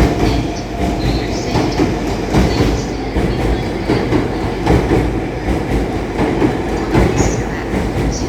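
Sunrise Seto/Izumo sleeper train rolling out slowly, its wheels clacking irregularly over rail joints and points, with short wheel squeals over a steady rumble.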